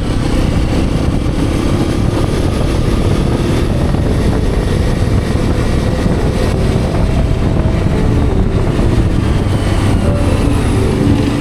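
Hero Xpulse 210's single-cylinder engine running while the motorcycle is ridden, with steady wind rumble on an action camera's microphone.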